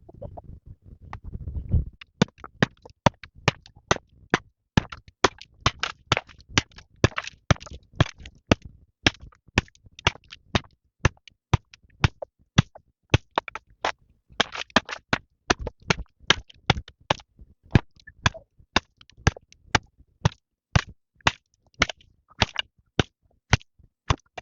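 Rapid, irregular series of sharp knocks, two to three a second, after a low rumble in the first two seconds.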